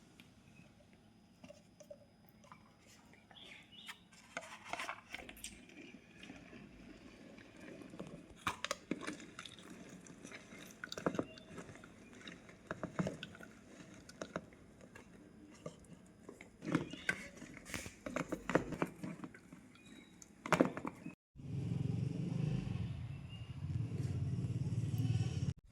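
Scattered light taps, clicks and knocks of hands working with kitchen utensils and food. After a brief dropout about 21 seconds in, a steady low hum takes over.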